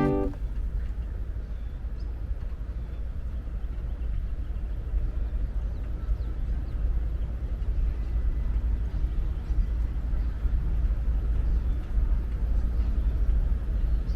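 Steady low rumble with a faint even hiss above it, with no distinct events.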